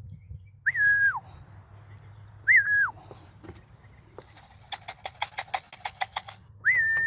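A person whistling a call to homing pigeons three times, each whistle a short rise, a held note and a slide down. Between the second and third whistles comes a quick run of about ten clicks.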